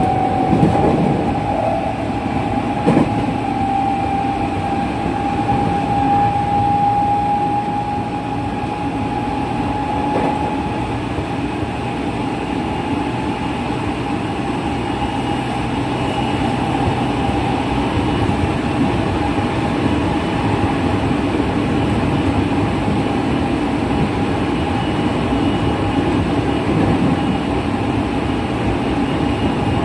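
Running sound inside a JR West 207 series electric train (set Z7): a steady whine from its traction motors, still at their original unchanged pitch, over the rumble of the wheels on the track. The whine rises slightly over the first several seconds and then holds level.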